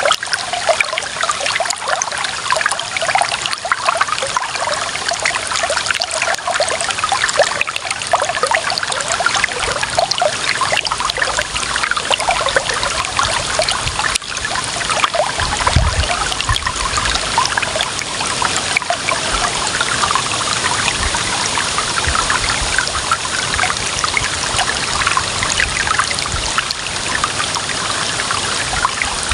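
Clear running water trickling and splashing steadily, with a dense bubbling rush. A short low rumble comes about halfway through and again near the end.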